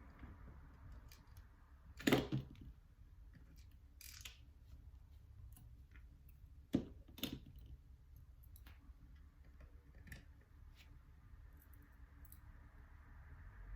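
Small tools and parts being handled during a repair: scattered light clicks and taps, with a louder knock about two seconds in and a close pair of knocks around seven seconds in, over a low steady hum.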